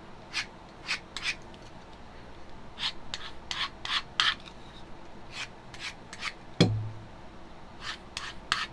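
A craft knife blade being stropped, drawn in short scraping strokes along the strop in quick runs of two to five to touch up its edge. A single sharp knock about six and a half seconds in.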